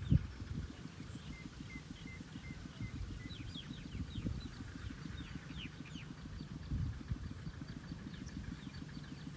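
Birds chirping over a rice field: many short, high calls sliding downward, with runs of quick repeated notes, over a continual low rumble.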